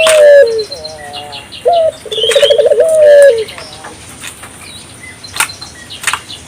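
Ringneck dove (burung puter) cooing: the tail of one coo at the start, then a full coo about two seconds in, a short note followed by a fast rolling run and a long falling note. Small birds chirp higher up in the background.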